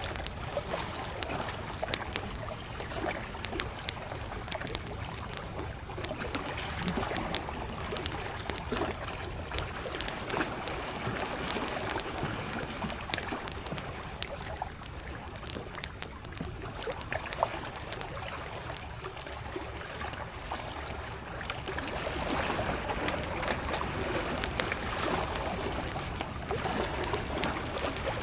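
Wood campfire crackling with frequent sharp pops, over small lake waves lapping at the shore in slow swells.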